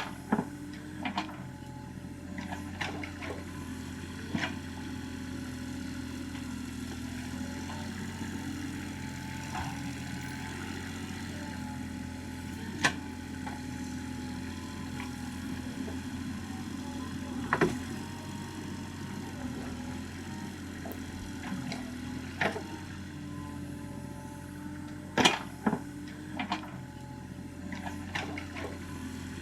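Excavator's diesel engine running steadily, with a handful of sharp clanks scattered through it.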